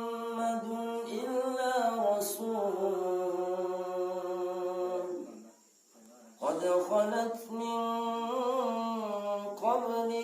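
A male qari reciting the Quran in the melodic tajweed style, holding long, ornamented notes on one voice. He breaks off for about a second midway, takes a breath, and then begins a new phrase.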